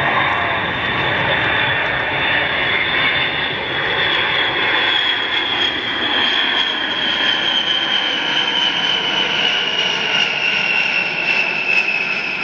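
Boeing B-52 bomber's eight jet engines during a flyby: a loud, steady rushing noise with a high whine that slowly falls in pitch as the bomber passes.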